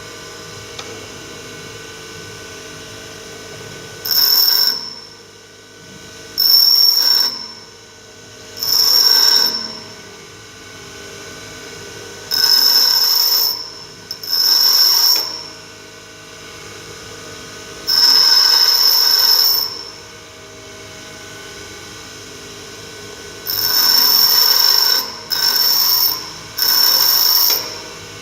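Bench grinder wheel running steadily while a mild steel tool blank is pressed against it in about nine separate grinding passes, each a loud, high-pitched grind lasting one to two seconds. The passes shape the underside of a single-point lathe cutting tool.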